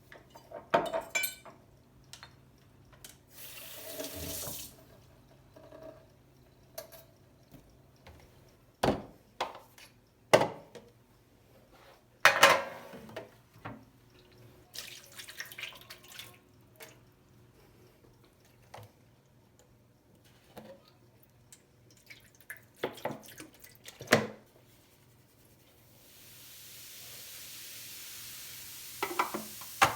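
Kitchen tap running briefly, then scattered knocks and clinks of things handled at the sink, and the tap running steadily again near the end.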